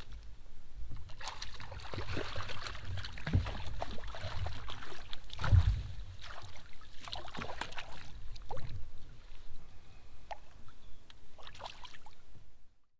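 Water splashing and sloshing around a fishing kayak, with irregular splashy strokes over a low wind rumble on the microphone; it cuts off abruptly near the end.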